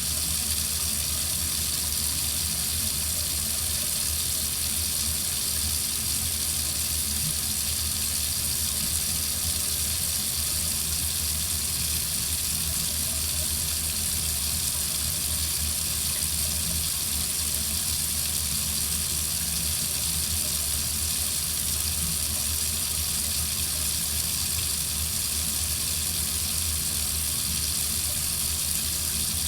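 Water running steadily from a tap into a sink, an even hiss with no change.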